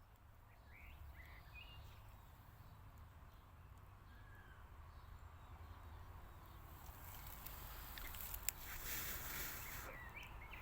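Outdoor ambience: a few faint short bird chirps over a low steady rumble, then from about seven seconds in a louder hissing rustle with one sharp click.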